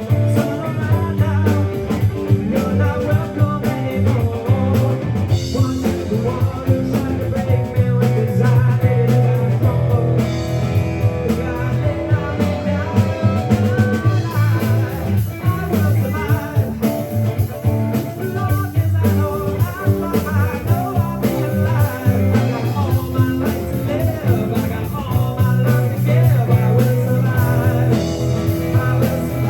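A live rock band playing: electric guitars, bass guitar and drum kit, with a lead vocal singing over them.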